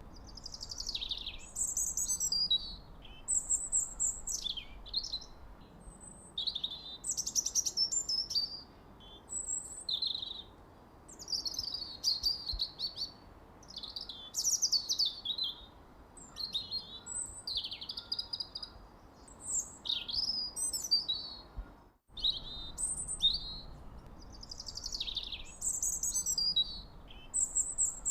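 Songbirds chirping and singing in a continuous run of quick, high, sliding phrases over a faint hiss, with a split-second break about three-quarters of the way through.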